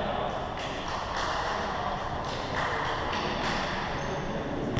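Basketball game sounds on an indoor court: a run of short knocks from the ball and players' feet over a steady background of faint voices.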